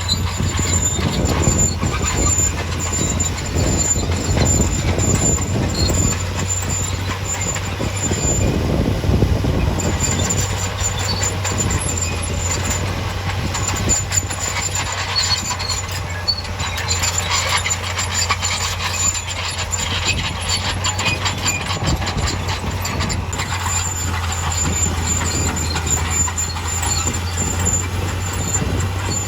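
Heavy earthmoving machinery at work: a diesel engine running steadily with a low hum under continual metallic clanking and rattling.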